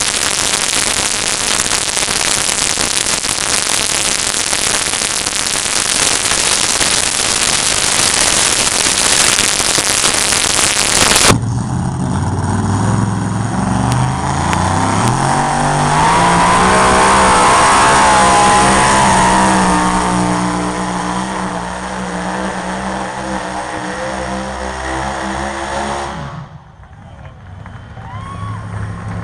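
Pulling truck's engine at full throttle during a truck pull. It is a loud, harsh roar at first. About 11 s in it gives way to a clear engine note that climbs in pitch and holds high, then it cuts off abruptly near the end.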